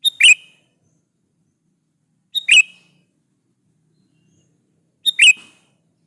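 Sooty-headed bulbul (kutilang) calling: three short, clear phrases evenly spaced about two and a half seconds apart, each lasting well under a second.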